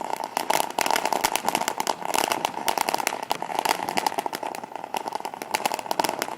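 Consumer firework crackling: a dense, continuous run of rapid, irregular pops and snaps over a steady hiss.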